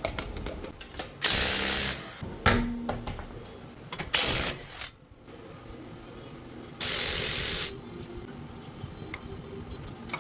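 Air tool run in three short bursts of hiss, with ratchet-like clicking between them, during work on a car's CV axle.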